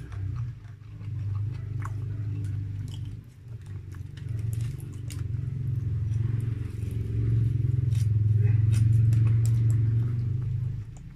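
Close-miked eating of a burger: biting and chewing with small scattered mouth clicks, over a low steady drone that swells in the second half and cuts off near the end.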